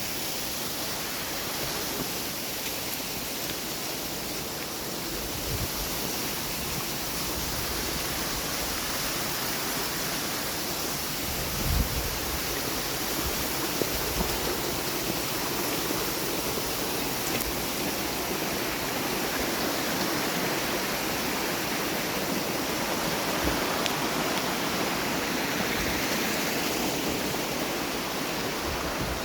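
Steady rush of flowing water from a mountain stream, with a single low thump about twelve seconds in.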